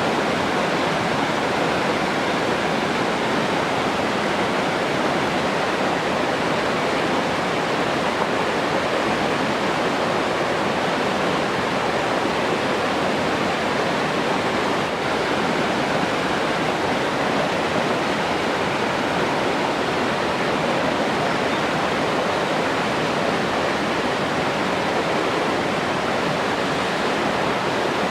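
Steady rushing water, an even unbroken noise that does not change.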